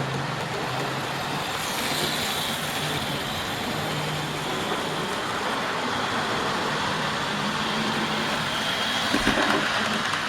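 Model railway locomotive running on the track: a steady rumble of wheels on rail with a faint motor whine.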